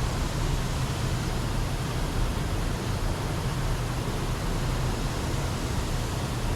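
Steady rushing noise with a strong low rumble.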